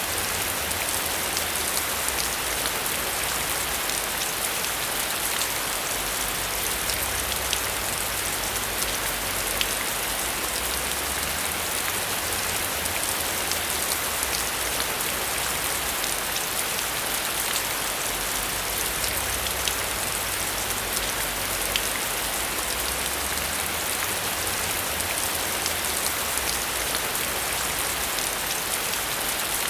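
Steady heavy rain, with many sharp individual drop ticks over a dense hiss and a low rumble underneath that swells and fades.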